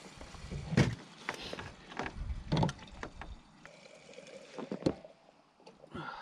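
Footsteps crunching irregularly through a light layer of snow over ice, with a few heavier steps.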